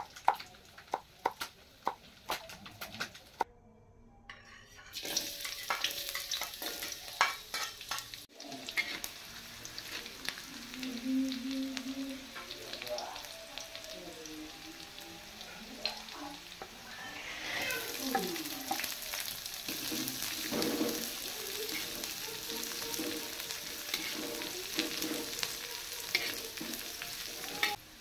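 A knife chops green chillies on a wooden cutting board in quick strokes. Then sliced shallots sizzle in hot oil in an aluminium wok as a spatula stirs and scrapes. The sizzle grows louder about two thirds of the way through, when the chillies go into the pan.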